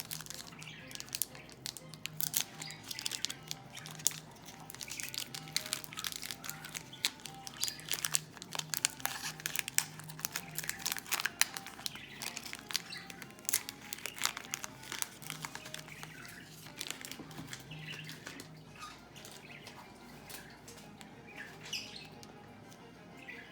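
Trading card pack wrappers being torn open and crinkled, with cards handled and slid against each other: a long run of quick crackles and clicks.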